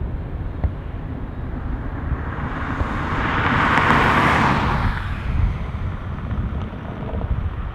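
Qantas Airbus A380 jet engines: a broad hiss swells, peaks about four seconds in, then fades as the four-engine airliner passes. A constant low rumble runs underneath.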